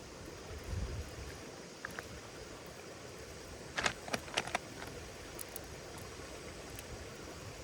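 Wood fire burning with a steady hiss, a soft low thump about a second in, and a quick cluster of sharp crackling pops about four seconds in.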